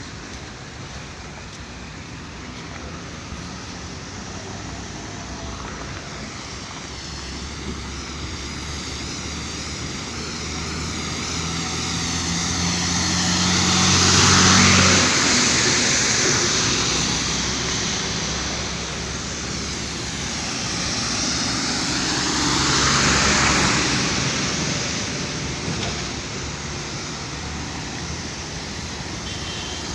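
Road vehicles passing by, their noise swelling and fading twice: once about halfway through, with a low engine hum that cuts off after the peak, and again about three-quarters through.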